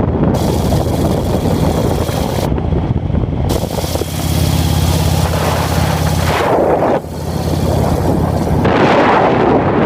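1953 Indian Chief's flathead V-twin engine running steadily on the move, with wind noise over the microphone. The sound drops briefly about seven seconds in.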